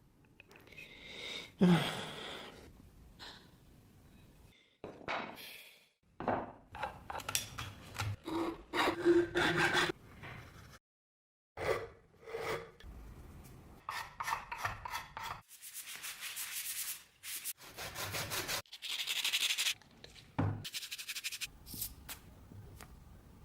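Hand-tool work on wood: repeated rubbing and rasping strokes, in a series of short clips with abrupt cuts between them.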